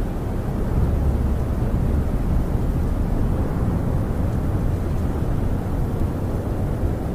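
Snowstorm wind heard from inside a camper: a steady low rumble of gusts, swelling a little about a second in.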